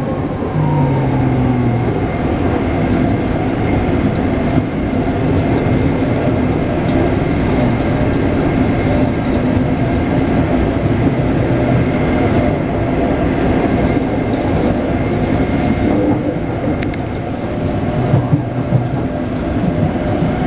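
Taipei Metro C381 train running between stations, heard from inside the car: a steady loud rumble of wheels on the rails with a faint steady high whine.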